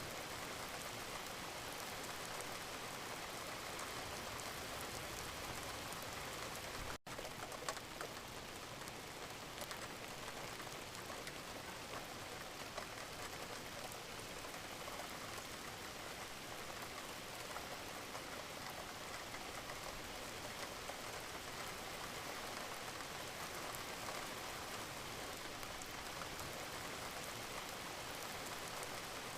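Steady rain: an even hiss of falling water with scattered individual drops ticking through it. The sound cuts out for an instant about seven seconds in.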